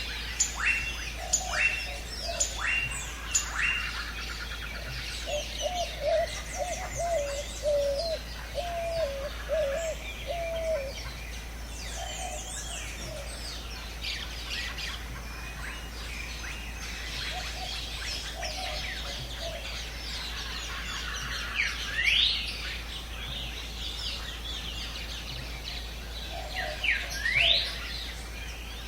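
Several birds calling and singing at once, with many overlapping chirps and quick falling whistles. A low warbling whistled phrase runs for several seconds early on, and two loud rising whistles stand out near the end.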